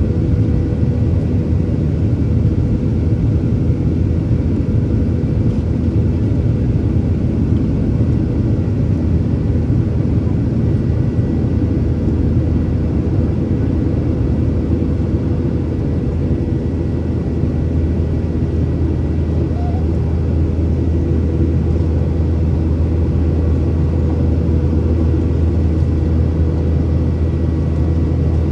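Cabin noise inside a Boeing 737-800: a steady, loud rumble of its CFM56-7B jet engines and the passing air, with a faint steady hum over it. The low rumble grows a little stronger about two-thirds of the way through.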